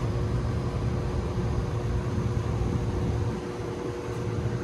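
Steady machinery drone of rooftop HVAC equipment: a low hum with a couple of steady tones above it, easing off briefly about three and a half seconds in.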